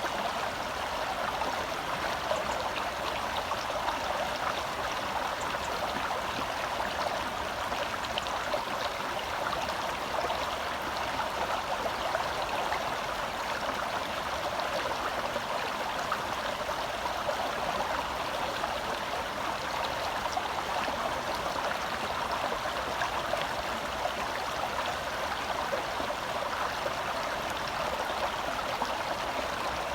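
Shallow forest stream flowing over rocks close by: a steady rushing and babbling of water, full of fine splashes and gurgles, unchanging throughout.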